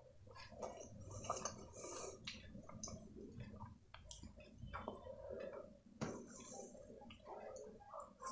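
Close-miked chewing and wet mouth sounds of someone eating fried rice and chilli paneer, with irregular soft clicks. Around the middle, fingers scoop through the rice.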